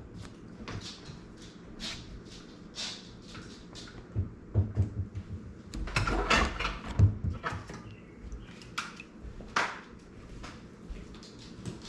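Irregular clicks, knocks and scrapes of things being handled, busiest about six to seven seconds in.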